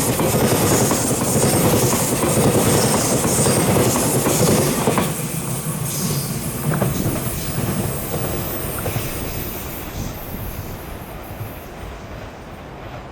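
Taiwan Railway EMU3000 electric multiple unit running past on the rails, its wheels and carriages loud for about the first five seconds, then fading steadily as the train draws away.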